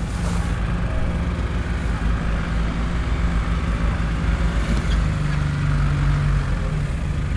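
Off-road 4x4 SUV engine running steadily at low revs, with a slight shift in pitch about halfway through.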